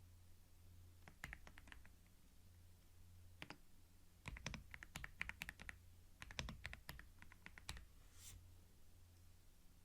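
Computer keyboard typing, recorded close on binaural microphones: irregular bursts of quick keystrokes with short pauses between them. A brief soft hiss comes near the end, over a faint steady low hum.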